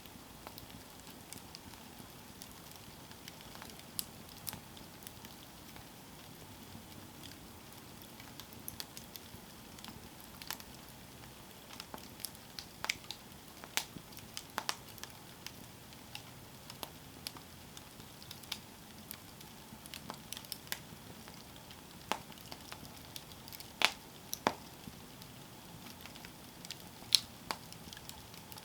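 Campfire burning, with scattered sharp crackles and pops of wood over a low steady hiss. The pops are sparse at first and come more often after the first dozen seconds, with a couple of louder snaps near the end.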